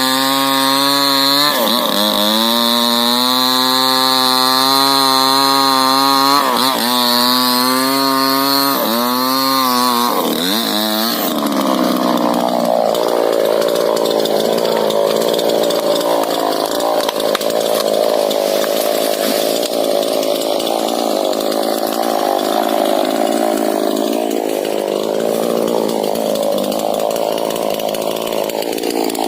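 Two-stroke chainsaw running at high revs, its pitch dipping and rising a few times. About a third of the way through, its note drops and turns rougher as it works under load, cutting into rubber tree wood.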